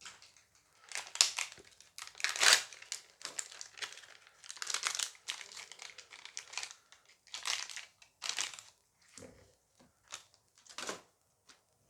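Foil booster-pack wrappers crinkling and crumpling as the packs are torn open and handled, in a string of irregular bursts.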